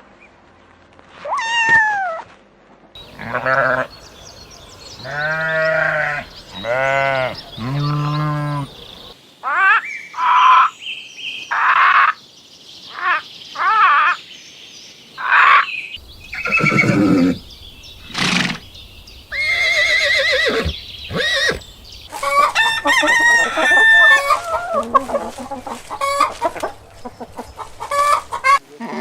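Farm animal calls: a goat bleating several times, then chickens clucking and squawking with a rooster crowing.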